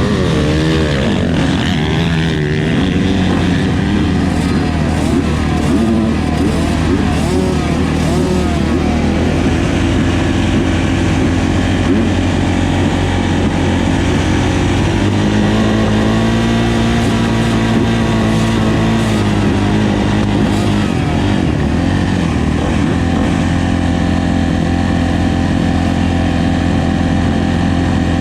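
Kawasaki KX450F motocross bike's single-cylinder four-stroke engine running, its pitch wavering up and down in the first few seconds, then settling into a steadier drone with a brief rise and fall in the middle.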